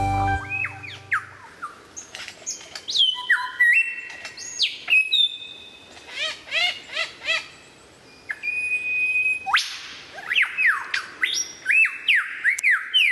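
A bird calling: a string of clear whistled notes, many of them sliding sharply down in pitch, with a few quick up-and-down chirps about halfway through and a rapid run of falling whistles near the end.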